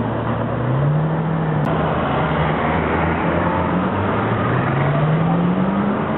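Car engines pulling away on a street. First a Bentley Continental GT convertible's engine rises briefly as it moves off. After a cut, a Ferrari 458 Italia's V8 accelerates away, its pitch climbing steadily over the last two seconds, with a scooter's engine alongside.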